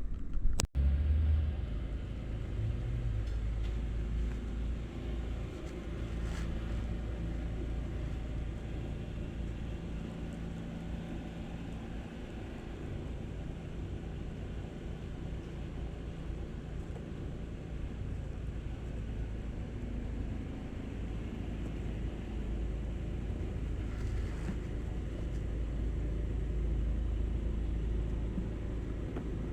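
Steady low rumble with no words over it, briefly cut out about half a second in.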